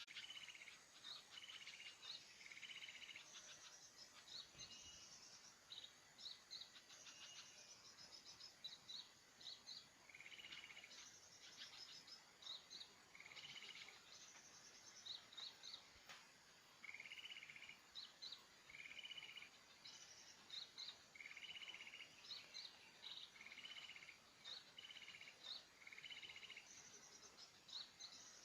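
Small birds calling over and over, faint: short high chirps mixed with longer buzzy, trilled notes a little lower, repeating every second or so. A steady high insect drone runs underneath.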